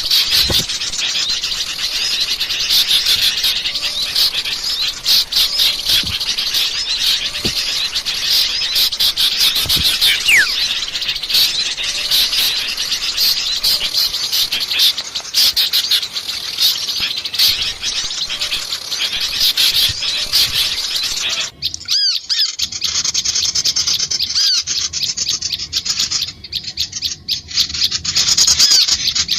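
Lure recording of many small songbirds chirping and twittering at once in a dense, noisy chorus, used to call small birds in for catching. About 21 seconds in, the background hiss drops out suddenly and the chirping goes on more sparsely.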